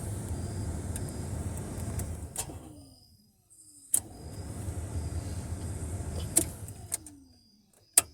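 A car's starter motor cranks twice on a nearly dead battery. Each attempt is a low whir that slows and winds down with a falling whine. A sharp click comes between the two attempts and another near the end.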